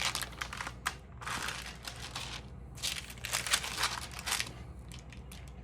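Crinkling rustle of stamps and their holders being handled, in three short bouts over a faint steady hum.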